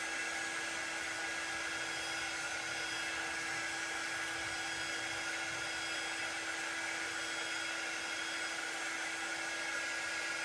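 Handheld hot-air dryer running steadily, blowing to dry wet ink on paper cutouts, a continuous whirring hum with a steady whine.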